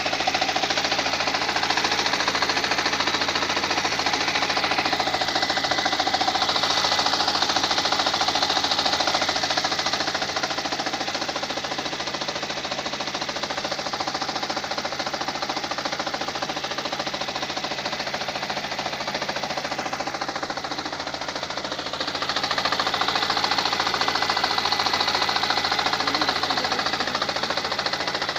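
Lada Granta running rough, with a rapid, continuous hammering knock that the owner hears coming from the gearbox. The knock is louder at first, eases for a stretch in the middle and comes back strongly near the end. The car is shaking with the check-engine light on, and the owner says the knock stops when the clutch is pressed while the engine keeps shaking.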